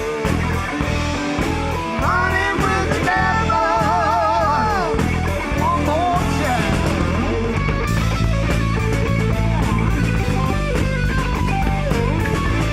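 Rock band playing live: electric guitar with bass and drums, the lead bending notes up and holding them with a wide vibrato about a third of the way in, then the band settling into a heavier, steady groove.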